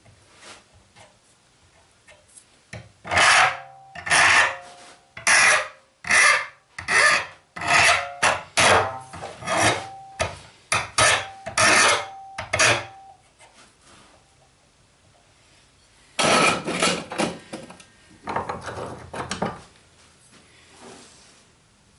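Hand file scraping across the steel of a forged rebar fork in a run of about a dozen quick strokes, some with a faint metallic ring. After a pause come two longer, slower strokes.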